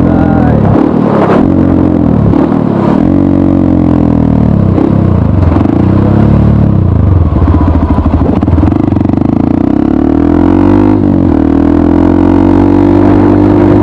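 Honda CRF150L's single-cylinder engine running through a Norifumi RV1 N4 aftermarket exhaust. The engine is loud, and its revs dip and climb back again several times, as when the throttle is rolled off and on or the bike is shifted.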